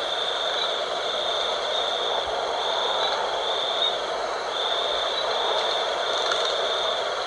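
Night wind rushing steadily, with insects trilling high and shrill in pulses about once a second.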